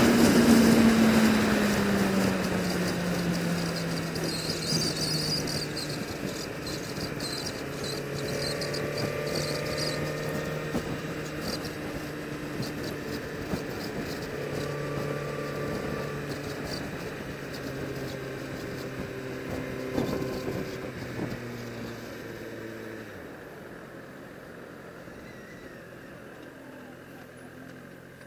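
Sport bike engine with its revs dropping as the motorcycle slows over the first few seconds, then running at low steady revs, growing gradually quieter and fading near the end.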